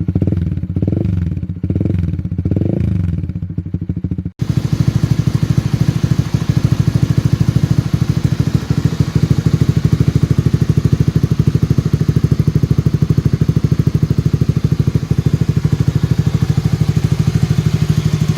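Honda Winner X's single-cylinder engine through an aftermarket exhaust, blipped about four times in quick revs. About four seconds in the sound breaks off sharply, and after that it idles steadily with an even exhaust beat.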